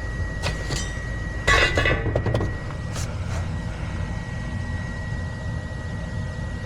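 A gas furnace's draft inducer motor runs with a steady hum and a thin, high whine at the start of a heat call, before the blower comes on. Several light metallic clinks and rattles sound during the first two and a half seconds, loudest about a second and a half in.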